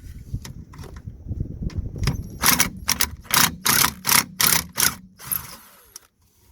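Impact wrench hammering in about eight short bursts, undoing a rusted mount bolt on the parking brake cable; handling clatter before the bursts start.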